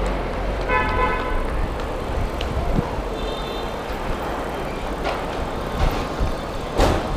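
Street traffic noise with a short vehicle horn toot about a second in and a higher, thinner beep around three seconds in. There is a sharp knock near the end.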